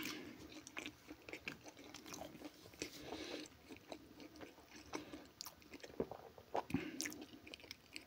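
A man chewing food close to the microphone, with many short, irregular wet clicks and smacks of the mouth.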